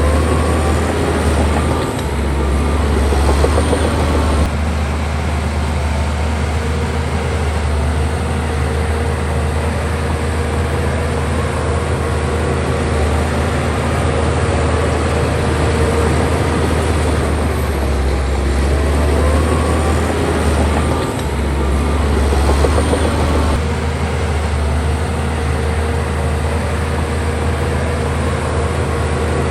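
Bulldozer's heavy diesel engine running steadily at work. Its note changes about four seconds in and again near the end.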